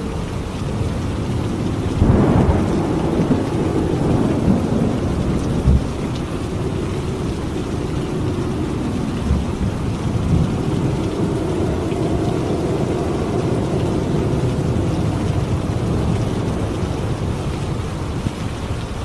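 Steady heavy rainfall with a thunderclap about two seconds in, its crackle dying into a low rumble that rolls on for several seconds.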